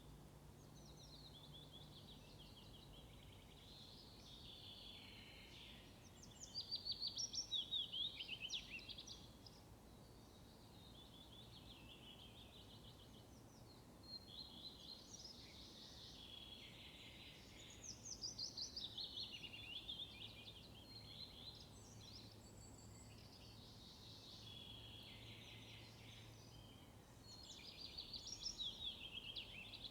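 Songbirds singing in phrases of rapid high trills that come every few seconds, with quieter calls between them, over a faint steady outdoor hiss.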